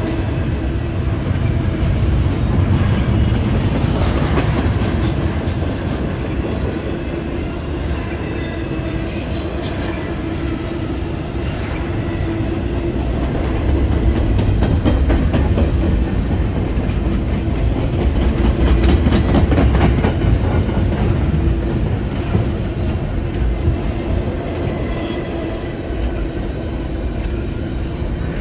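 Double-stack intermodal freight train's loaded well cars rolling past at close range. Steel wheels rumble on the rails with clacking over the track, louder for a stretch in the second half.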